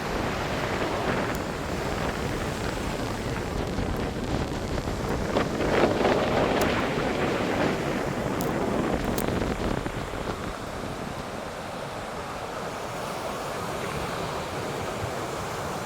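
Steady rushing outdoor noise, like wind buffeting the microphone or surf, swelling briefly about six seconds in, with a few faint clicks.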